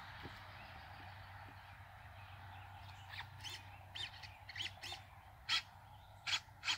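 Birds calling: a run of short calls that starts about three seconds in and grows louder near the end, over a steady background hiss.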